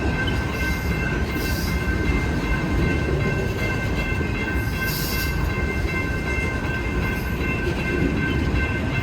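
Union Pacific freight train rolling past: a steady low rumble of cars on the rails, with faint steady high whining tones and two brief hisses, about one and a half and five seconds in.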